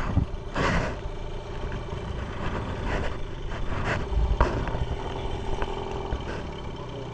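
An engine running steadily, with a few brief knocks and clatters.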